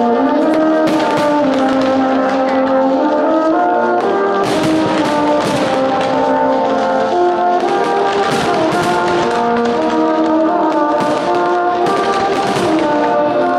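Loud orchestral music led by sustained brass notes, with fireworks bangs and crackling repeatedly cutting across it.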